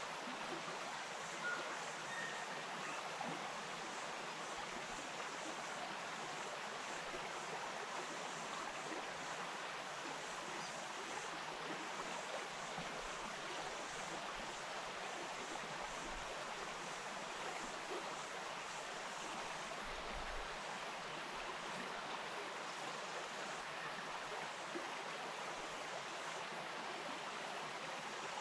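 Stream water running and babbling over stones, a steady rush.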